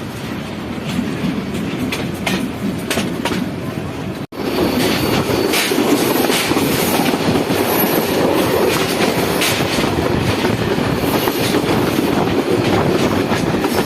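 Passenger train running along the track, its wheels clacking over the rail joints with a steady rumble. About four seconds in there is a sudden break, after which the rumble is louder.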